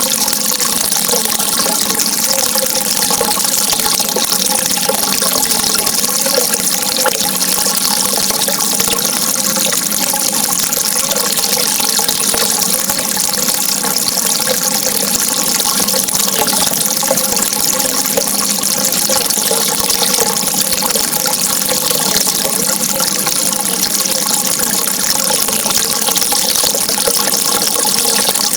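Steady rush of running water, continuous and even with no breaks.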